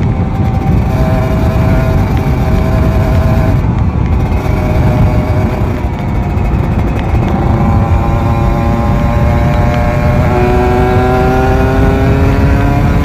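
Kawasaki Ninja RR 150's ported two-stroke single-cylinder engine, fitted with a 34 carburettor, running on the road under heavy wind rush on the microphone. The engine note holds fairly steady, then rises steadily through the second half as the bike accelerates.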